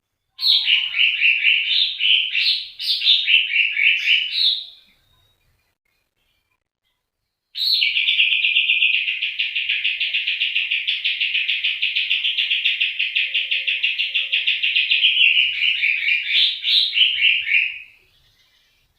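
A songbird singing in two bouts of rapid trilled notes: a choppy burst of about four seconds, then after a pause of a few seconds one long, even, fast trill lasting about ten seconds that breaks into choppier notes near its end.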